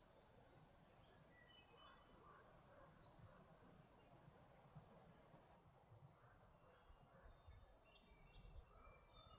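Faint forest ambience with scattered bird calls: a quick run of short chirps about two seconds in and another about six seconds in, with thin short notes between, over a faint low rumble.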